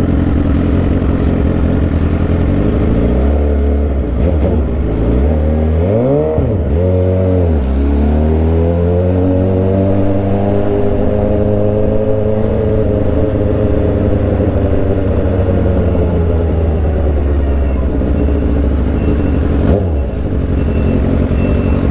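Suzuki GSX-R 750 inline-four with an aftermarket Orion exhaust, running under way. The revs rise and fall quickly a few times, then climb and ease off in one long, smooth pull, with a brief dip near the end.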